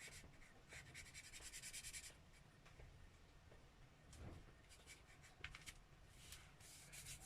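Felt-tip marker scribbling on paper, faint: quick back-and-forth colouring-in strokes for the first two seconds, then lighter, with a few separate strokes later on.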